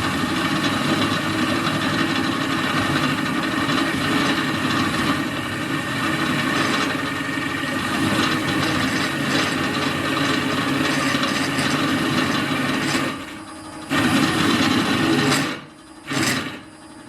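Drill press cutting steel, a steady cutting noise over the motor's hum. It stops abruptly about thirteen seconds in, then comes back twice in short bursts.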